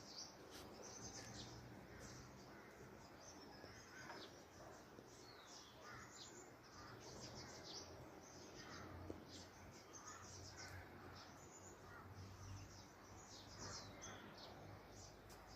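Faint bird calls: many short, high chirps repeated at irregular intervals, over a low steady background hum.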